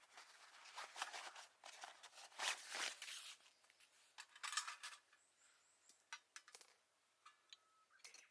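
Handling noise from the small steel Uniflame Fire Grill Solo stand being set up: scraping and rustling for the first few seconds, then a few light clicks with a faint metallic ring near the end.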